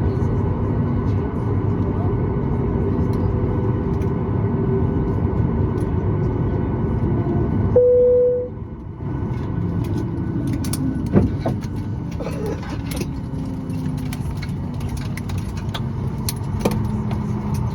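Steady hum of a Boeing 737-9 MAX's cabin, with a single chime about eight seconds in, after which the hum dips briefly. Then many small metallic clicks and rattles of passengers moving about.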